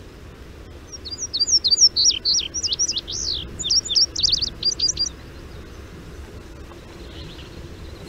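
Indigo bunting singing one song of quick, high, sweet notes, many of them given in pairs, lasting about four seconds and starting about a second in.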